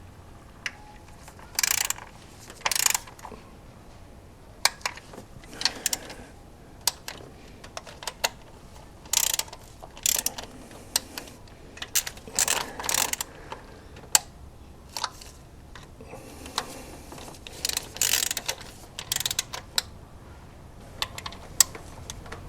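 Click-type torque wrench ratcheting in repeated short bursts of clicks, with pauses between, as small coil-pack bolts are turned down.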